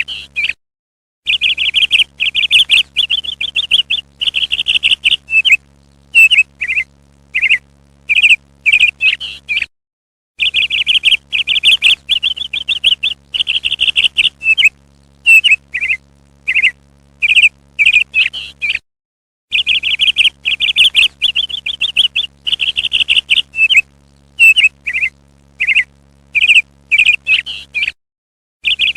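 Parrot calls: fast, loud chirps and trills that come in three near-identical stretches of about eight seconds, each broken off by a brief dead-silent gap, as a looped call recording does.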